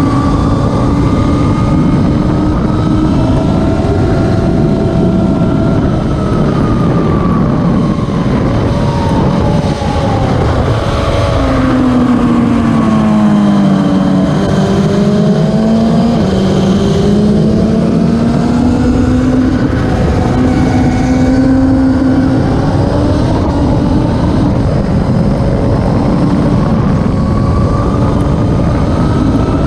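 Classic superbike racing motorcycle engines running hard. The engine pitch sinks to a low point about halfway through, then climbs back up.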